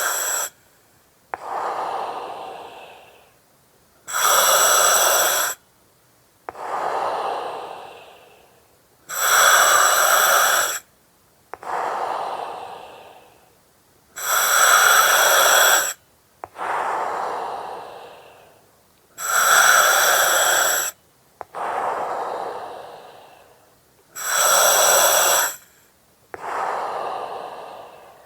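Slow, steady breathing through an oxygen mask, about one breath every five seconds. Each breath is a loud hiss through the mask's valve that starts and stops abruptly, followed by a softer breath that fades out.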